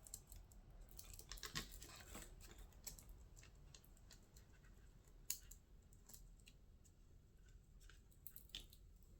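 Faint, scattered light clicks and small handling noises of parts being worked by hand, with a sharper click about five seconds in.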